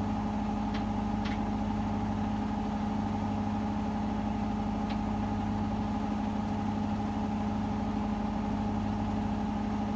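Hotpoint WMFUG 942 washing machine spinning steadily during an interim spin between rinses: a steady motor whine over a drum hum, with a few faint clicks.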